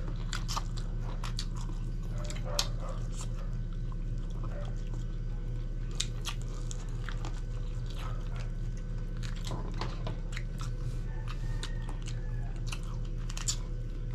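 Close-miked chewing and biting of grilled chicken, with wet smacks and small crunches scattered throughout, over a steady low hum.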